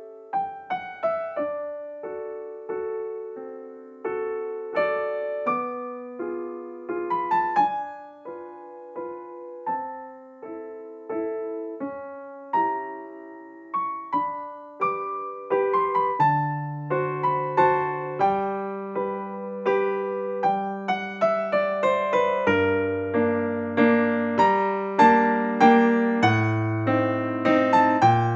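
Background piano music: a gentle melody of single struck notes, with lower bass notes joining about halfway through and the playing growing fuller and louder toward the end.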